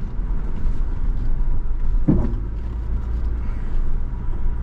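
Off-road vehicle's engine and drivetrain running steadily while driving a rough forest trail, a loud low rumble, with one brief pitched sound about two seconds in.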